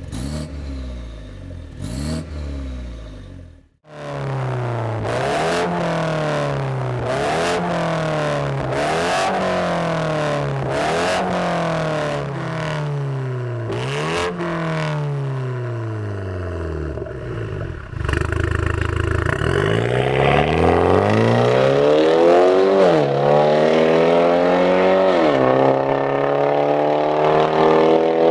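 BMW 530i G30's turbocharged 2.0-litre four-cylinder running through an aftermarket Fi Exhaust, accelerating hard. The pitch climbs and then drops again and again with each gear change. It gets louder about two-thirds of the way through, with longer rising pulls.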